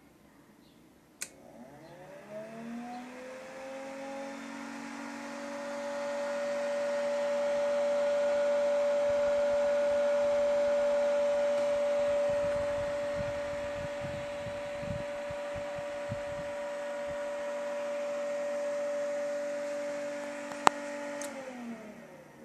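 Electric fan switched on with a click, its motor whine rising as it spins up, then running with a steady hum. Near the end another sharp click switches it off and the whine falls away as it winds down.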